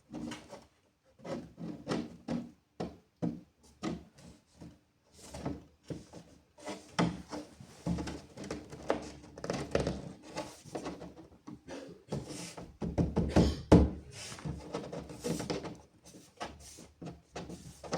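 A panel being worked into a decorative fireplace frame: irregular knocks, thunks and scraping rubs as it is pushed in, flexed and shoved through, busiest in the middle of the stretch.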